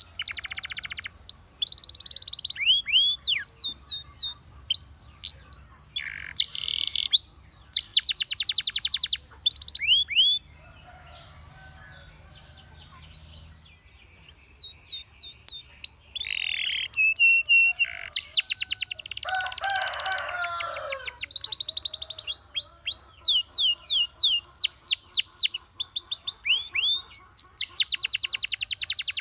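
Domestic canary singing: fast rolling trills alternating with quick rising and falling whistled notes. The song stops for a few seconds about ten seconds in, then resumes.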